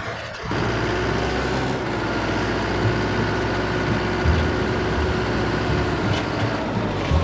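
Tractor diesel engine running steadily, with a steady whine over it and a few low thuds.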